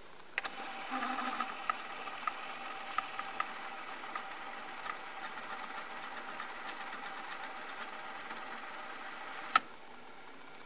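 Sony TC-FX210 cassette deck rewinding a tape: a click as rewind engages, then a steady whirr of the motor and spinning reels with light ticks. It ends in one sharp, loud clack about nine and a half seconds in as the tape reaches its start and the transport stops.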